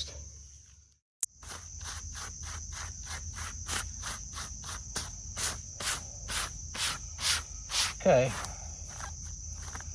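Crickets trilling steadily in one high, unbroken tone over a quick run of rhythmic rustling strokes, about three a second. The sound fades out in the first second and comes back with a sharp click.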